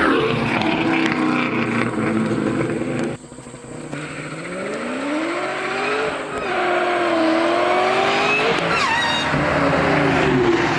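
Supercharged 4.6-litre V8 of a 2003 Mustang SVT Cobra accelerating hard through a long-tube header and cat-back exhaust. The sound drops away sharply about three seconds in. The engine then climbs in pitch twice, with a gear change near the middle and another fall in pitch near the end.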